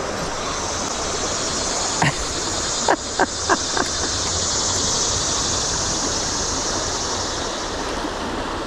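Creek water rushing steadily, with a handful of brief sharp sounds about two to four seconds in: one, then four more in quick succession.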